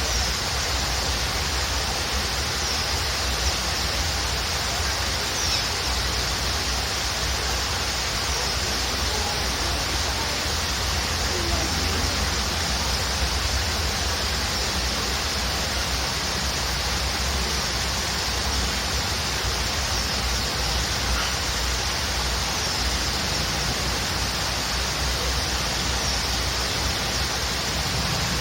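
Waterfall rushing steadily, with a few faint bird chirps scattered over it.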